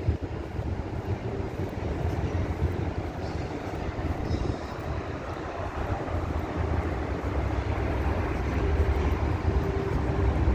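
Street ambience dominated by a steady low rumble of engines, gradually growing louder.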